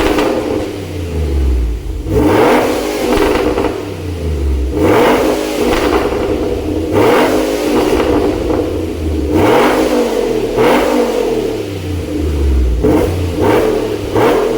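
Dodge Ram 2021 5.7L Hemi V8 breathing through an aftermarket complete exhaust system, revved repeatedly in short throttle blips, each rising and falling again.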